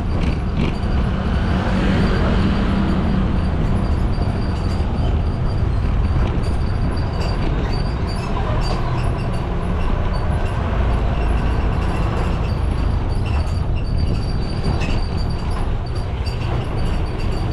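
Steady road noise from riding a motorcycle through city traffic: low rumble of wind and engine, with scattered small clicks and a faint high whine.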